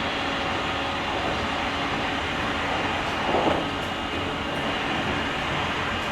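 Running noise of a JR Kyushu 883-series limited express electric train heard from the deck of a motor car: a steady rumble and rush with a faint hum. A brief louder noise comes about three and a half seconds in.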